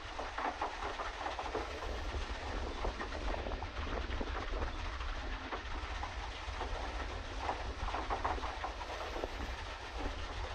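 Pedal boat under way: its paddle wheel churning water with a continuous irregular clatter, over a steady low rumble.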